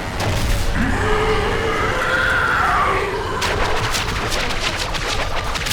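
A giant cartoon monster's drawn-out, wavering screech over a deep rumble, followed by a rapid run of crashing impacts.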